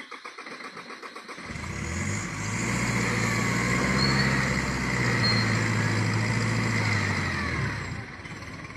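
A vehicle engine being restarted after a stall. After about a second and a half of steady ticking it catches, runs louder with revving for several seconds, then drops back to a lower run near the end.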